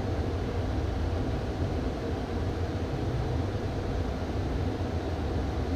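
Steady cabin noise in the cockpit of a Beechcraft Premier I business jet in descent: an even low hum with a rush of airflow over it.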